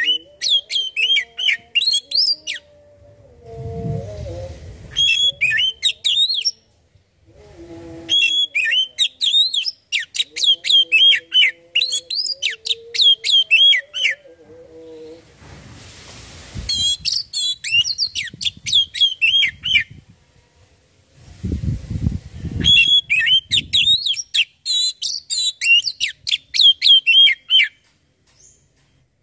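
Oriental magpie-robin (kacer) singing in several bursts of rapid, varied whistled phrases, each a few seconds long, with short pauses between them.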